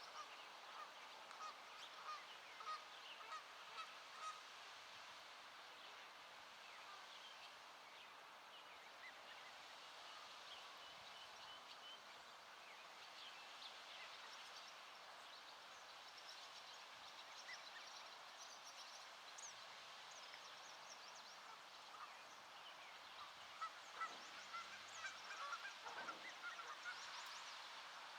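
Geese honking: a run of short, evenly spaced honks in the first few seconds and another burst of calls about twenty-four seconds in, over faint chirping of small birds.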